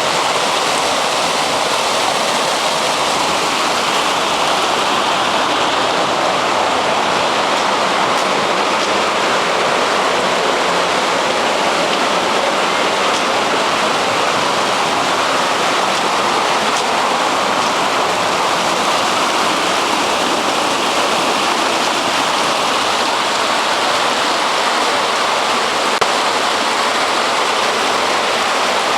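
Rushing water of a wadi running in spate after heavy rain: a loud, steady, unbroken sound of flowing water.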